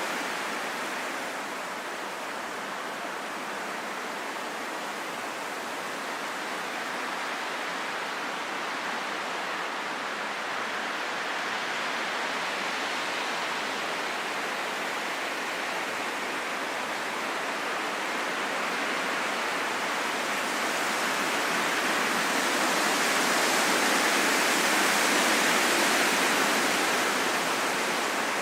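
Steady rain falling in a forest: an even hiss that swells louder for a few seconds near the end.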